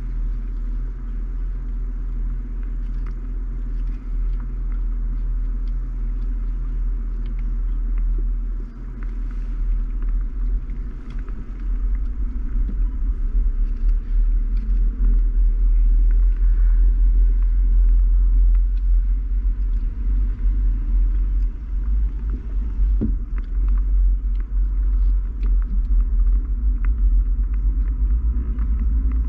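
Deep, steady rumble of a car on the road, heard from inside the cabin, with scattered light ticks over it. It grows louder about twelve seconds in.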